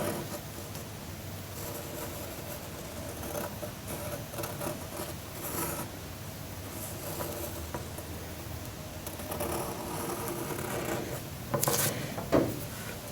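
Ink pen scratching across construction paper while a hand is traced around its outline, with paper rustling and a couple of short knocks near the end.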